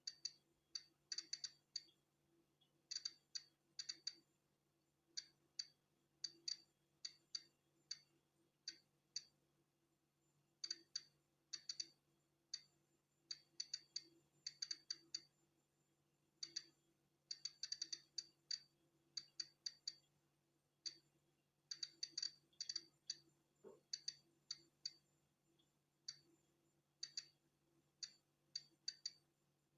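Polon EKO-C digital Geiger counter clicking at random, irregular intervals, some clicks bunched close together, each click one detected particle of natural background radiation. A faint steady hum lies underneath.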